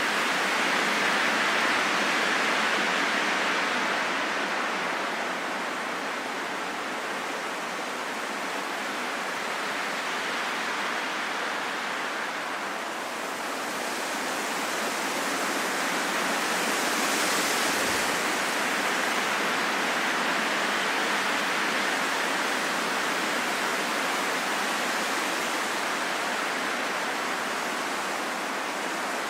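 Steady rain falling in a forest, an even hiss that gently swells and eases.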